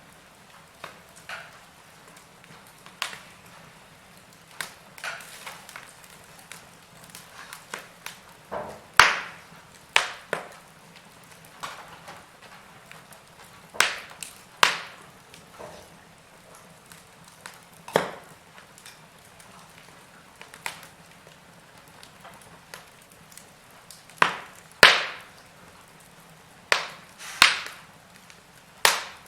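Wood fire crackling in a fireplace: irregular sharp pops and snaps over a faint steady hiss, several louder pops spread through.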